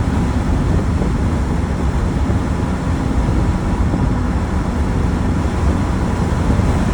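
Land Rover Defender 300Tdi turbodiesel cruising steadily in fifth gear at about 100 km/h, heard from inside the cab with the windows down: a steady low engine and road drone under a lot of wind rush.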